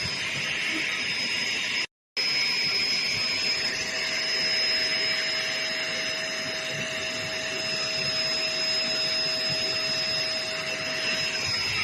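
Hoover HL4 upright vacuum cleaner running steadily: a rush of air with a thin high whine and a lower hum over it. The sound cuts out for a split second about two seconds in.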